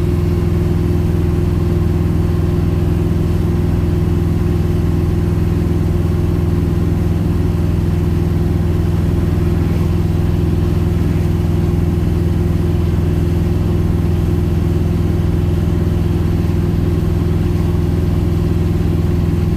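A 1971 Plymouth Road Runner's 440 V8 running steadily while cruising, its low drone holding an even pitch throughout.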